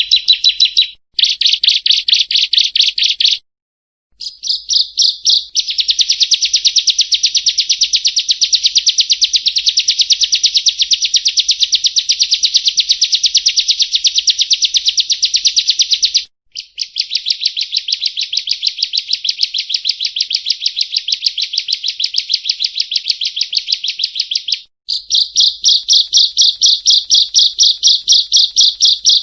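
A prinia (perenjak) singing a loud, rapid run of evenly repeated high notes. The song comes in long bursts with short breaks about a second in, around four seconds in, about halfway through, and near the end.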